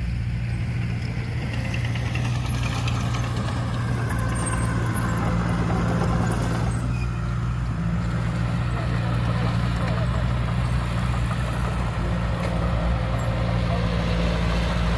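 Diesel engine of heavy earthmoving equipment running steadily with a low, even drone.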